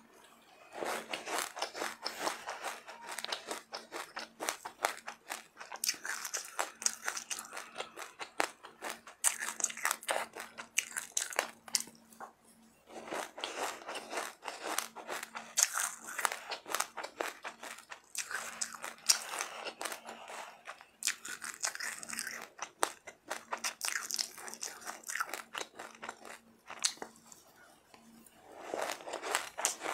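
Close-miked ASMR eating sounds of someone biting and chewing crunchy food. Rapid crunches come in stretches, with short pauses about 12, 22 and 28 seconds in.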